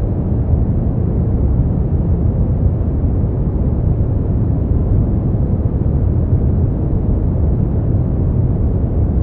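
Steady sleep-aid noise track sold as white noise: an even, unbroken rush weighted heavily to the low end, heard as a deep rumble with little hiss on top.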